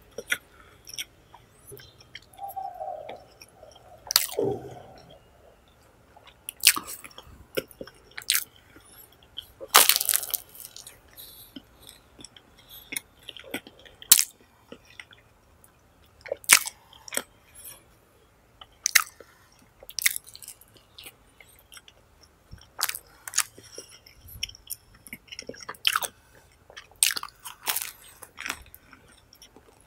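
Close-up chewing of a mouthful of pizza: irregular sharp wet mouth clicks and crust crunches.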